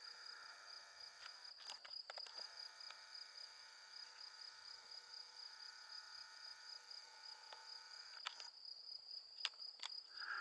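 Crickets chirping in a continuous high trill, with other insects singing lower at the same time. A few faint clicks come through about two seconds in and again near the end.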